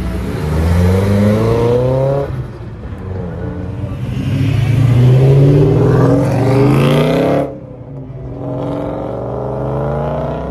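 Cars accelerating hard away, one after another. The engine note climbs steeply in three pulls of a few seconds each, and the middle pull cuts off suddenly.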